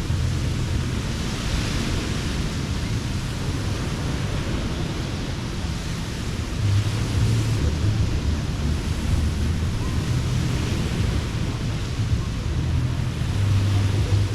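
Surf washing onto a beach, its hiss swelling and easing a few times, with wind rumbling on the microphone.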